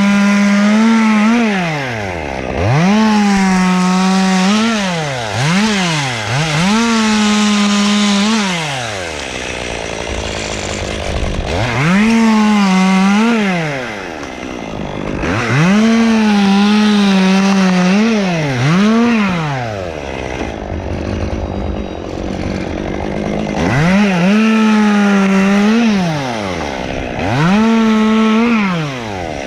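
Two-stroke chainsaw repeatedly revved to full throttle while cutting the pine, held at high speed for a second or two each time and dropping back to idle in between, about nine times.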